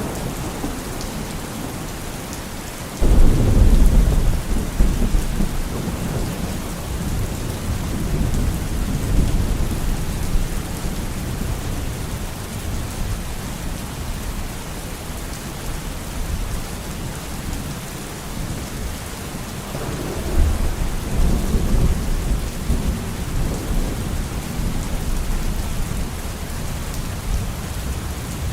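Steady rain with thunder: a sudden loud clap about three seconds in that rumbles on for several seconds, and a second rolling rumble about twenty seconds in.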